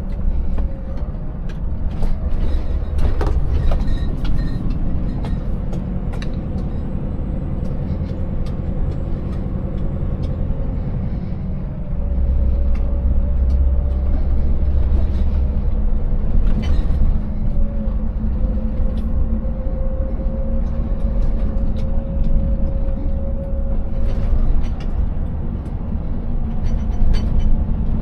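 Scania 590S V8 truck running steadily on the road, a deep engine drone with a thin wavering whine above it, and scattered knocks and rattles. The low drone gets louder about twelve seconds in.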